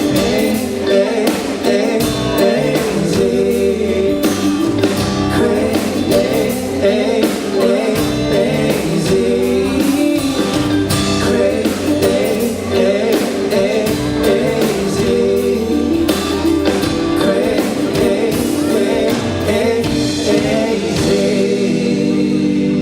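Live pop-rock band playing, with singing over electric guitar and drums.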